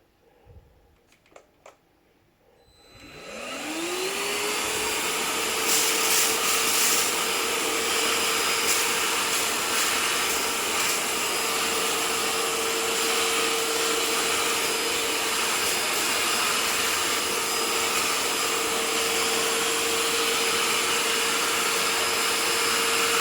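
Electrolux WellQ7 cordless vacuum, used as a handheld with an attachment fitted, switched on after a few faint clicks. Its motor spins up with a rising whine about three seconds in and then runs steadily with a constant whine over a loud hiss of suction.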